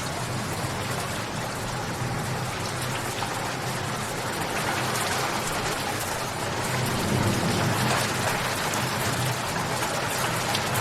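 Steady rain falling, with a dense patter of individual drops striking a surface. A low rumble swells briefly about seven seconds in.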